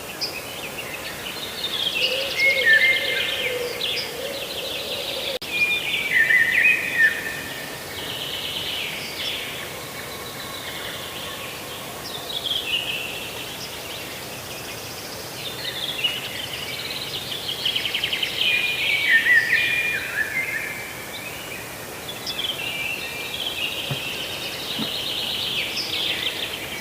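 A songbird singing short phrases of rapid notes, each lasting about two seconds and sliding downward, repeated every few seconds over a steady outdoor background hiss.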